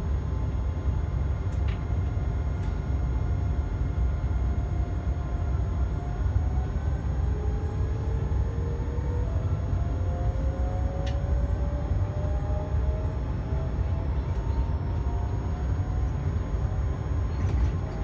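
Electric passenger train running, heard from inside the carriage: a steady low rumble with a faint whine slowly rising in pitch through the middle, and a few light clicks.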